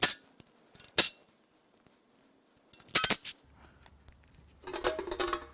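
Sharp metal-on-metal clicks and clanks: a single click at the start, another about a second in, a quick burst of clinks around three seconds, and a short ringing clank near the end, as tools and the steel windage tray are worked off the bottom of a V8 engine block.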